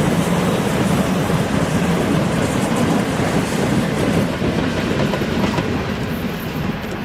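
A 2ES6 'Sinara' electric locomotive running past on the track, its wheels running loudly on the rails. The sound eases off a little near the end.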